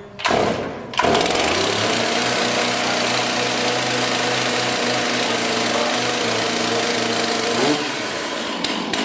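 Two-stroke chainsaw pull-started, catching about a second in and running at a steady high fast idle, as it does when first started from choke with the chain brake off; near the end the engine note drops.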